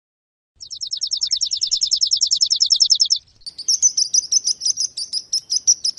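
Sparrow chirping: starting about half a second in, a rapid high trill of evenly spaced notes, then a fast run of repeated high chirps.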